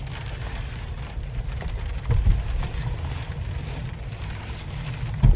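Rain falling on a pickup truck's camper shell, a steady patter over a low rumble, with a couple of dull knocks from movement inside the truck bed, about two seconds in and near the end.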